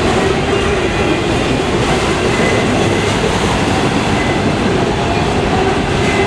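Freight train rolling past close by: a steady loud rumble of wheels on rail with clickety-clack, and a faint high wheel squeal now and then.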